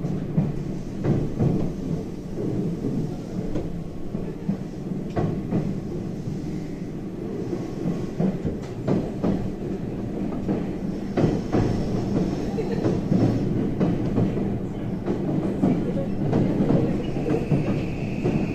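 JR West 323 series electric train running on rails, heard from inside the car: a steady rumble with the wheels clicking over rail joints. A steady high tone joins near the end.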